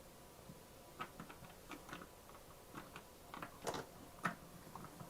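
Faint, scattered clicks and taps of plastic Play-Doh playset pieces being handled and fitted together, with a couple of louder knocks partway through.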